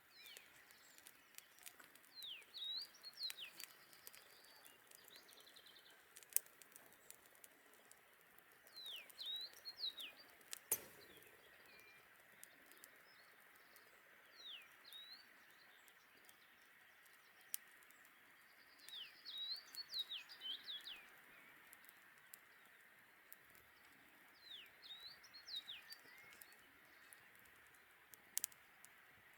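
A songbird singing short phrases of quick sweeping notes, repeated every five or six seconds over a faint steady hiss. Scattered sharp crackles from a campfire run through it, the loudest a single sharp snap about six seconds in.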